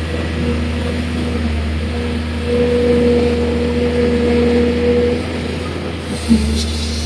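Excavator's diesel engine running steadily, with a constant low hum and a steady pitched drone. A brief loud knock and a short dip in engine pitch come about six seconds in.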